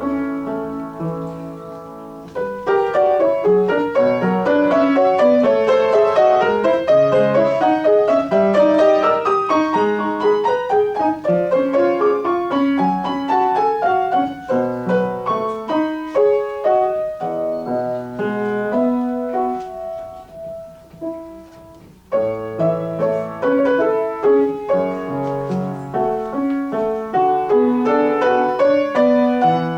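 Solo piano playing a classical piece: a flowing passage of many notes that dies away about two-thirds through, then starts again with a new phrase.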